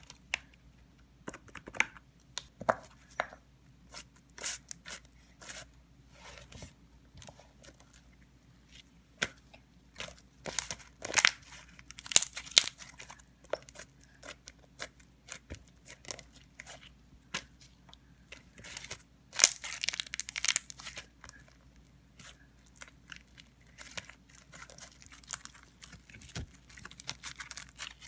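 Slime being squeezed, stretched and pressed by hand, making irregular sticky crackles and small pops, with denser bursts of crackling now and then.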